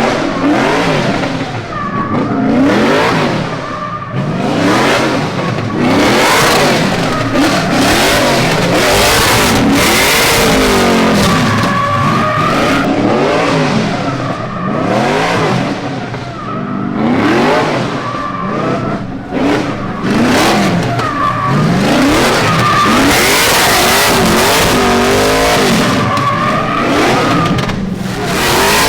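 BMW drift car's engine revving hard, its pitch climbing and dropping again and again as the car is driven, with a broad hiss of tyre noise from the slides.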